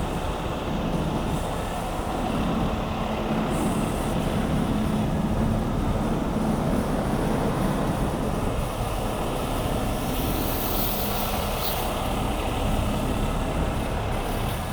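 Heavy diesel truck engine running steadily, a low rumble with a faint hum.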